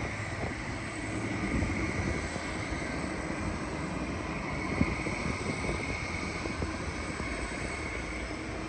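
Jet airliner engines, a steady rumble with a high whine, as the plane comes in to land. A short knock about five seconds in.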